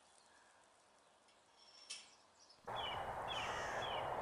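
Near silence, then an abrupt rise to a steady outdoor background hiss about two-thirds of the way in, over which a bird gives three short, high chirps falling in pitch, about half a second apart.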